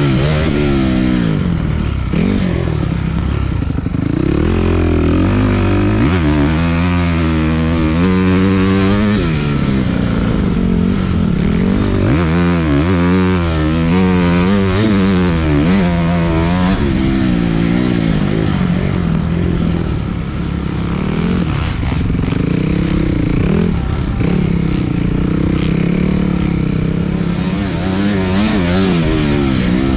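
Dirt bike engine being ridden, its pitch rising and falling again and again as the throttle is opened and closed and it shifts through the gears, over a steady low rumble.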